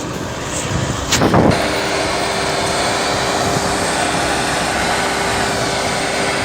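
Heavy forestry machine's engine running steadily, with a constant tone in its sound. About a second in, a brief loud rushing noise.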